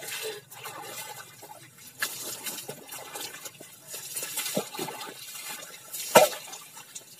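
Bucket bath: water scooped from a bucket with a dipper and poured over a person, splashing off the body onto the ground in several pours. The loudest is a sharp splash about six seconds in.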